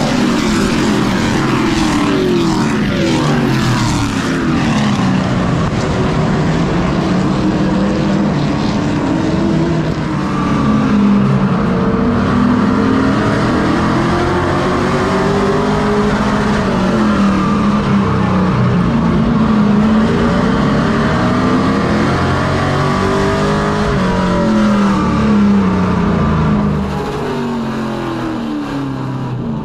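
Race truck engine running hard, its pitch rising and falling over and over as it accelerates and backs off around the short oval. It eases off somewhat near the end.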